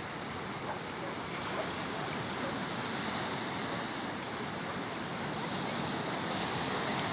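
Sea surf washing onto the shore in a steady rush, growing a little louder toward the end.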